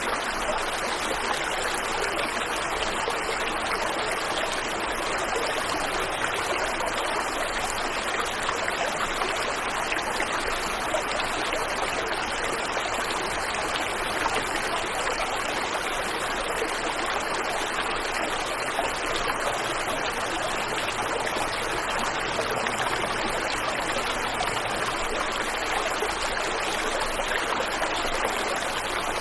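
Waterfall and river water rushing steadily, an even, unchanging flow.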